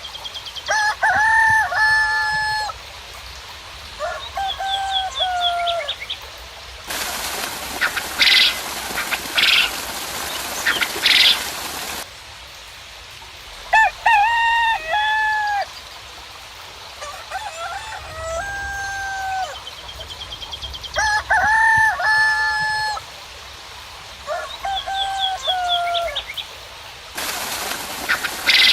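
Roosters crowing over and over, each crow a few short notes ending in one long held note. Twice a stretch of steady rain hiss cuts in and out abruptly, with loud, sharp, high bird calls over it.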